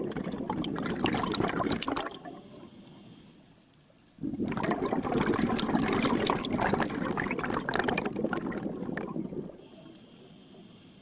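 Scuba diver breathing through a regulator underwater. Exhaled bubbles burst out noisily twice, each lasting a few seconds, and between them comes the quieter hiss of an inhalation through the regulator.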